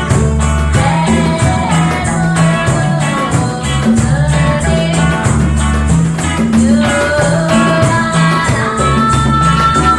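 Live reggae band playing: a steady, repeating bass line and regular percussion under a melody, with singing.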